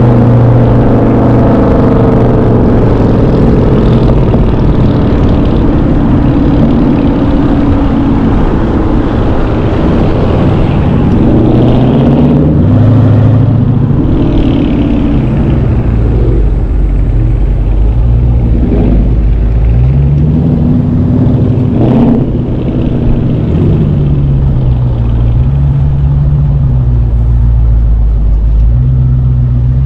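Car engine running loudly, its pitch rising and falling as it is revved and eased off, starting as a rev winds down. A brief sharp click comes about two-thirds of the way through.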